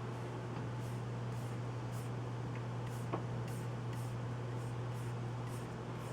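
Soft computer keyboard keystrokes at an irregular pace, roughly two a second, with one sharper click about three seconds in, over a steady low hum.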